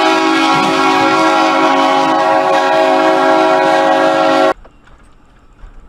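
Train horn sounding in one long, loud, steady blast of several notes at once, cutting off suddenly about four and a half seconds in.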